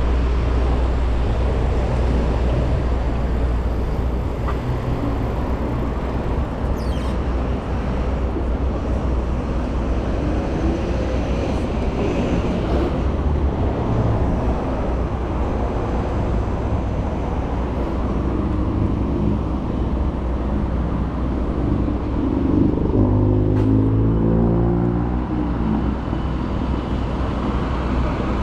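City road traffic heard from a moving bicycle: a steady low rumble of engines and tyres. About 23 s in, a nearby vehicle's engine passes, its pitch falling over a couple of seconds.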